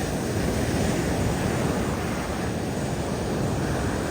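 Steady rushing noise of ocean surf mixed with wind buffeting the microphone.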